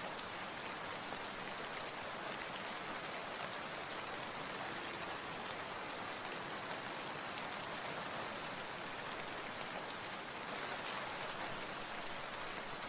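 Steady rain falling, an even, unbroken hiss of drops without pauses or changes.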